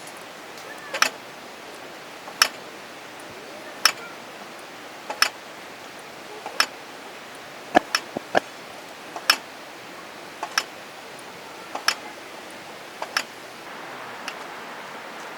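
Sharp taps or knocks repeating at a fairly even pace, about one every second and a half, with a quick cluster of three about halfway through, over a steady low hiss.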